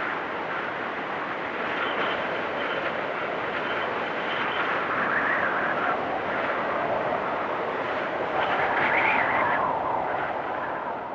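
Blizzard wind blowing hard and steadily in gusts, with a higher whistling swell about five seconds in and a stronger one near nine seconds.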